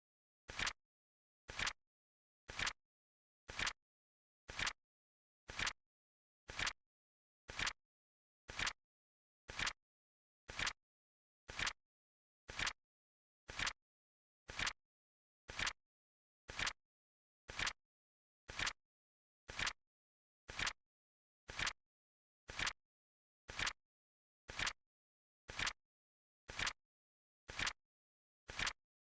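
Flip-clock timer sound effect: a short, sharp click once a second, evenly spaced, with silence between.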